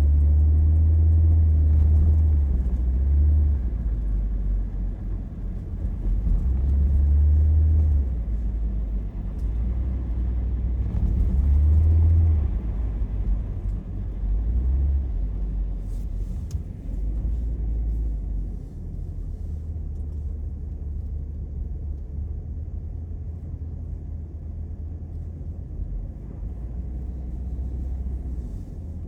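A car driving, heard from inside the cabin: a deep road and engine rumble that swells and eases several times, then runs steadier and quieter in the last third.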